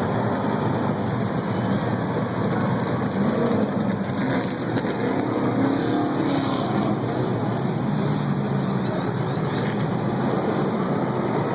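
Many NASCAR Cup stock-car V8 engines running at once during the pre-race engine warm-up, a steady, dense mass of engine noise.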